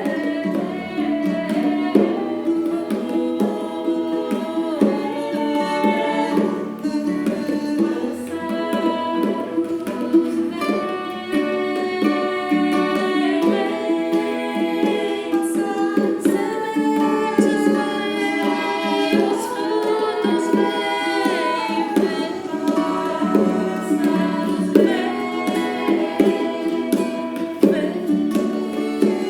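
Women's voices singing a melody together in layered harmony, with a hand drum beating underneath.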